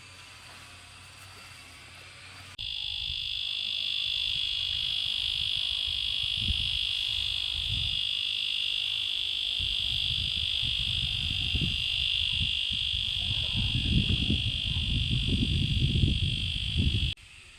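A steady, high-pitched shrill drone from an insect chorus that starts abruptly a few seconds in and cuts off near the end, with low rumbling buffeting that grows stronger in the second half.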